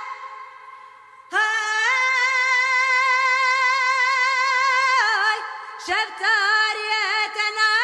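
A woman's voice singing a Kurdish folk song in a long, free melismatic line: after a brief pause, one long held note with wide vibrato, then quick ornamented turns. A single voice with no other instrument heard.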